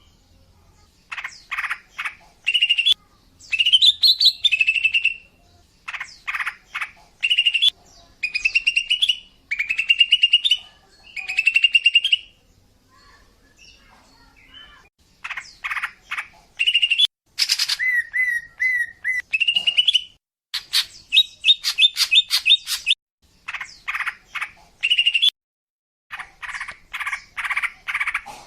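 Female green leafbird (cucak ijo) calling in bursts of sharp chirps and short rising, trilled whistles, with brief pauses between phrases. It is a female's call, the kind played to lure males.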